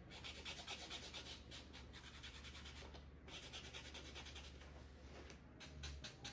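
Faint, quick scratchy rubbing strokes on a hard surface, typical of a craft tool such as a marker tip worked over a small wooden piece, with brief pauses about three seconds in and again near the end.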